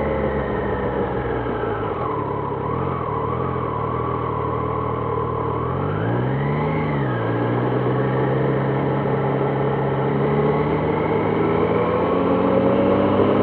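2026 Triumph Trident 660's inline three-cylinder engine under way: the revs fall at first, rise and drop again quickly about six seconds in, hold steady, then climb as it accelerates near the end.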